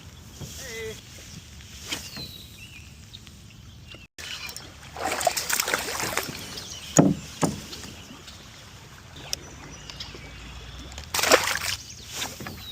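Water sloshing and splashing around a kayak in irregular bursts, with a brief break about four seconds in.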